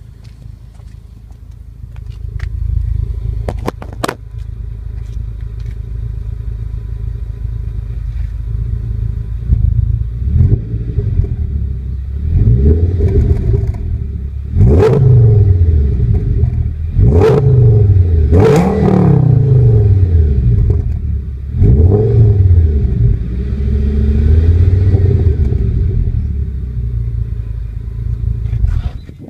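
2007 Audi S6's 5.2-litre V10 exhaust, with the rear two resonators removed, heard right at the tailpipe: idling with a deep rumble, then revved several times in quick succession, each rev rising and falling in pitch, held below about 4,000 rpm by the rev limiter. A single knock about four seconds in.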